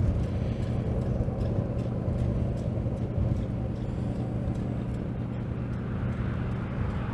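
A steady low mechanical hum, like a running engine or machinery, over a light rushing background noise.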